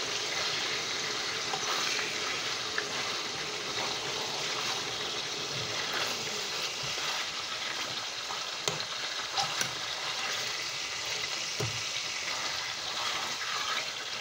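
Chicken pieces sizzling steadily as they fry in oil in a pot, with a few light clicks and scrapes of a metal utensil turning them against the pot.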